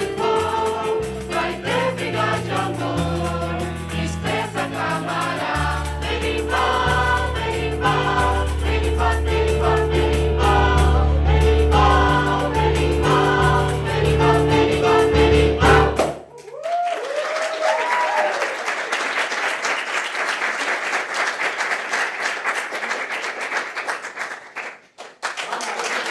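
A choir sings with instrumental backing and sustained bass notes until the song ends about 16 seconds in. An audience then applauds, with a short whoop rising over the clapping.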